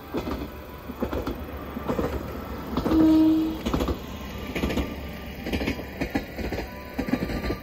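Single-car diesel railcar passing, its wheels clacking over rail joints about once a second, with a short horn blast about three seconds in.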